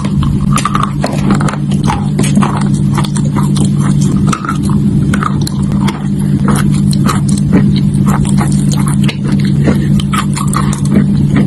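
Close-up crunching and chewing of chalk: many sharp, irregular crunches of chalk breaking between the teeth, over a steady low hum.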